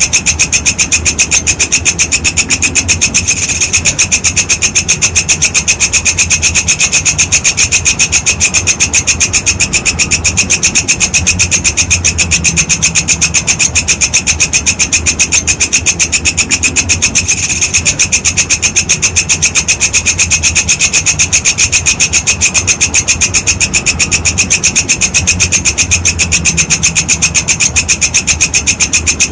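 Walang kecek grasshopper calling nonstop: a fast, even train of high pulses, with a low hum underneath. The pulses falter briefly twice.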